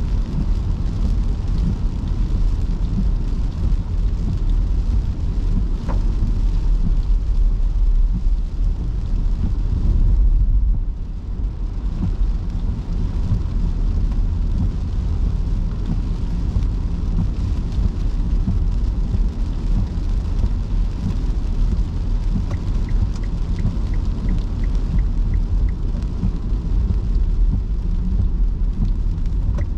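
A car driving in heavy rain: a steady low road-and-tyre rumble with the hiss of rain. About three-quarters of the way in, a faint, evenly spaced ticking starts and keeps on.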